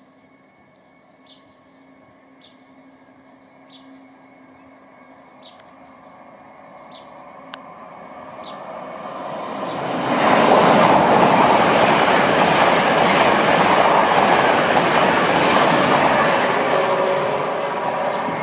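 LNER Azuma (Class 800/801) high-speed train running through the station without stopping. A rush of wheel and air noise grows louder, is loudest from about ten seconds in for several seconds, then begins to fade as the train goes away.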